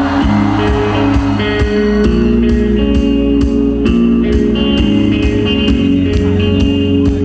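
Live rock band playing an instrumental passage: electric guitar chords held over bass and drums, with cymbal hits on a steady beat.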